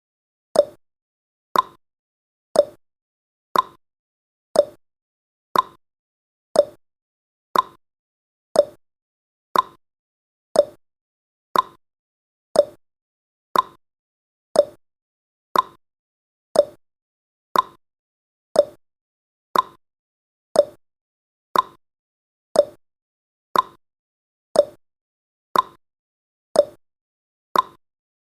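Countdown timer's ticking sound effect: one short click a second, alternating between a lower and a higher click like a clock's tick-tock.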